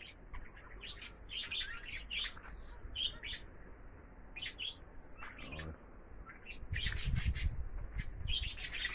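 Small birds chirping and twittering in short high calls throughout. About seven seconds in, a louder rush of noise with a low rumble joins them and lasts to the end.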